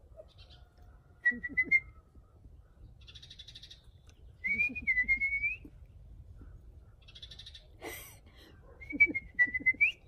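A person whistling a short, wavering call to birds three times, with birds chirping back in short rapid trills between the whistles.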